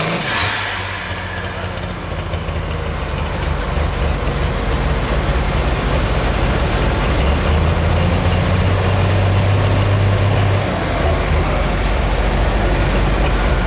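Pro Stock diesel pulling tractor engine running at low revs with a steady low note. At the very start a high whistle falls away as the engine comes down from high revs.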